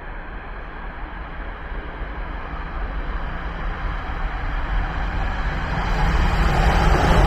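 Corail passenger train with a BB 22200 electric locomotive approaching on an electrified main line: a steady rumble of wheels on rails that grows louder, with a hiss building in near the end.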